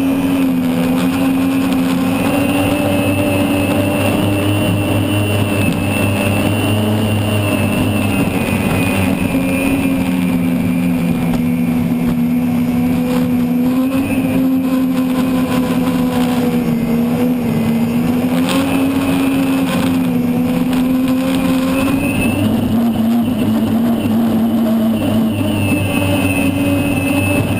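Unlimited hydroplane's gas turbine engine running steadily, heard from onboard, a loud whine whose pitch drifts slightly up and down.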